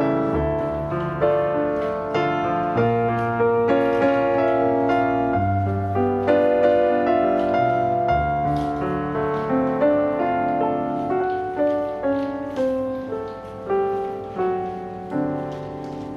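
Solo piano background music: a melody of single struck notes, each fading away after it is played.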